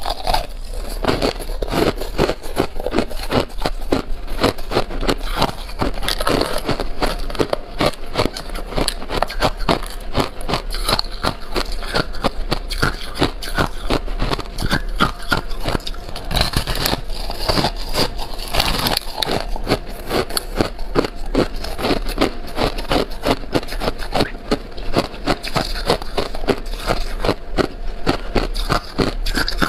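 A person biting and chewing ice close to the microphone, a rapid, continuous run of crisp crunches and cracks.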